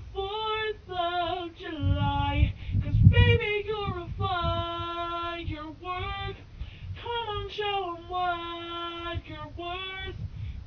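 A teenage boy singing unaccompanied, his voice pitch-shifted high by a helium-voice app so that it sounds like a child's, with several long held notes.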